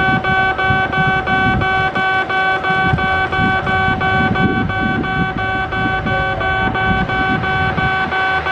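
Railway level-crossing warning bell ringing in a steady, fast, even rhythm of about three to four strikes a second, over the low rumble of a passing train.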